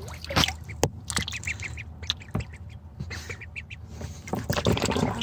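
Ducklings peeping in runs of short high calls, with scattered clicks and small splashes of bills dabbling and pecking in the water.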